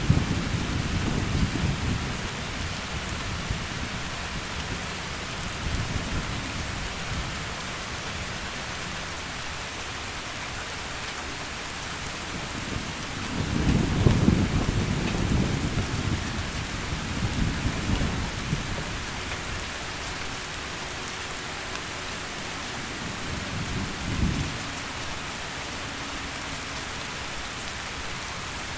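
Steady heavy rain with thunder rumbling in low swells, the loudest roll about halfway through and a short rumble near the end.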